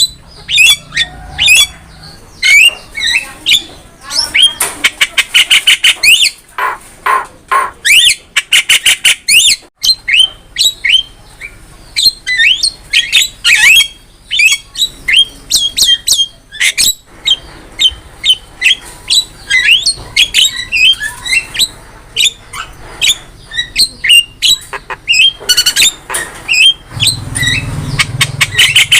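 Javan myna in full, continuous song: a loud, varied stream of short whistles, squawks and sweeping notes, broken by fast rattling trills.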